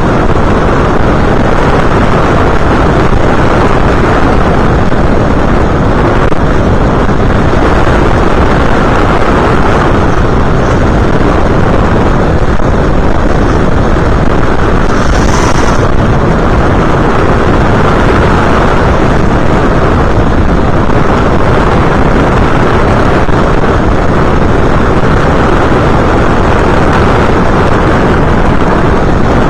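Loud, steady rush of wind and motor noise picked up by an FPV aircraft's onboard camera microphone in flight, without a clear engine tone.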